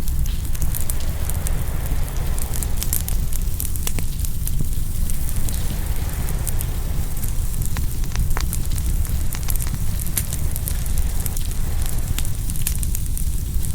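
Open wood fire crackling and popping, with many sharp snaps scattered through. Underneath are a steady low rumble and a wash of ocean waves that rises and falls.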